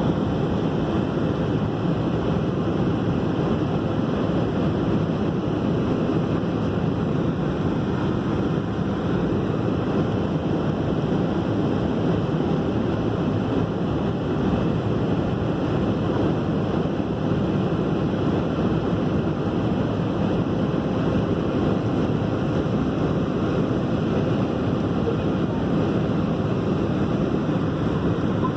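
Steady rushing hum inside an airliner cabin on the ground before take-off: the engines running and the cabin ventilation, even and unbroken throughout.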